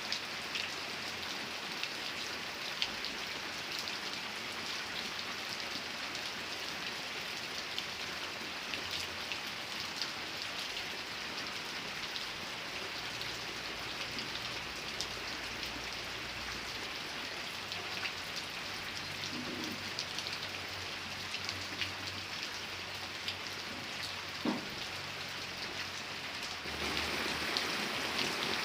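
Steady rain falling, with scattered sharp drop ticks over an even hiss; it gets louder near the end.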